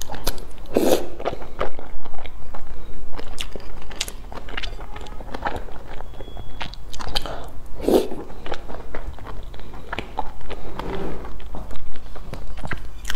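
Close-up mouth sounds of eating: biting and chewing, with many small clicks and smacks. Louder bites come about a second in, near eight seconds and around eleven seconds.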